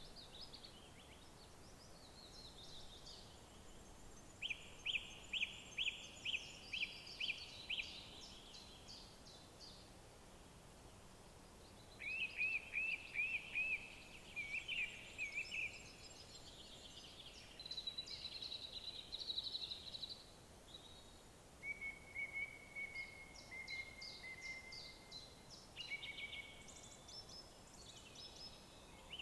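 Woodland birdsong: several songbirds singing phrases of quickly repeated clear notes, one after another, over a faint steady background hiss.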